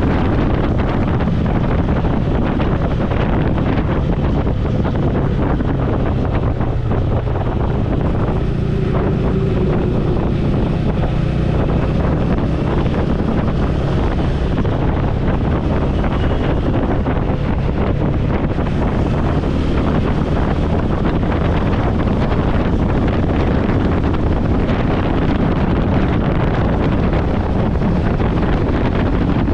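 Wind buffeting a helmet-mounted microphone on a moving motorcycle, with the bike's engine running steadily beneath it.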